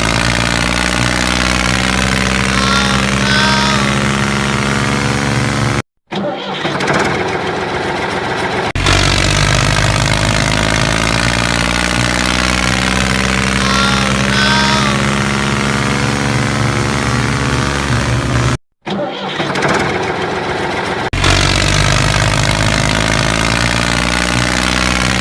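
Engine running steadily, as in a looped tractor engine sound track that repeats about every twelve seconds. It cuts out abruptly twice, about six and nineteen seconds in, each time followed by a couple of seconds of a rougher, changed sound before the steady running resumes.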